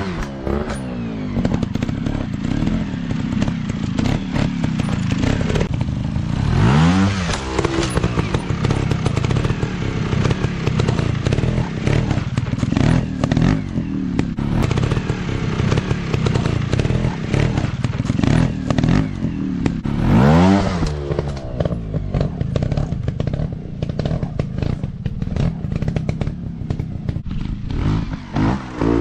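Dirt bike engine running and revving hard, its pitch sweeping up sharply at the start, again about a quarter of the way through and again about two-thirds through, over a constant rattle and clatter.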